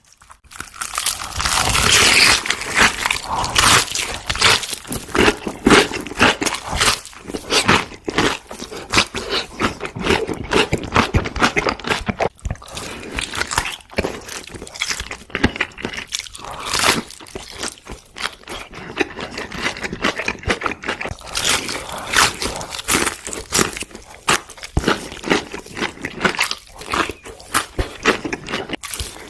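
Close-up eating sounds of crunchy food: loud, rapid crunching and crackling from biting and chewing, with a few brief pauses.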